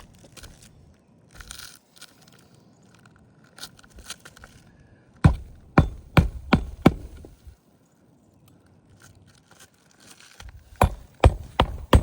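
Asphalt shingles being lifted and bent by hand, with faint gritty scraping and crackling of granules coming loose, and two runs of sharp knocks, one about five seconds in and one near the end. The crackle is the sign of a brittle roof shedding granules.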